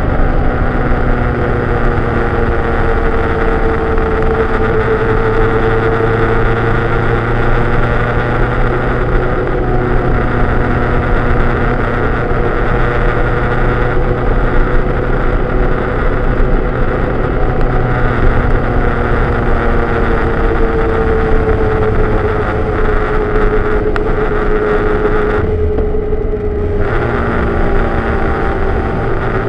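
Vehicle engine running steadily under way, its pitch rising and falling slowly, mixed with wind and road noise. About 25 seconds in, the hiss briefly dulls for a second or so while the engine note carries on.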